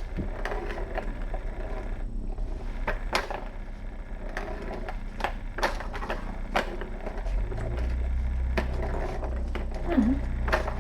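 Kittens playing: irregular light clicks, knocks and scratching as they bat toys and scramble about. A low hum comes in about seven seconds in, and there is a short squeak near the end.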